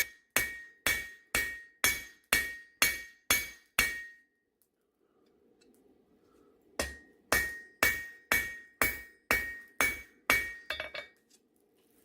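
Hand hammer striking hot high-carbon steel on an anvil while forging a knife's bevels, about two ringing blows a second. The blows stop for about three seconds midway, then resume and end in a few lighter, quicker taps.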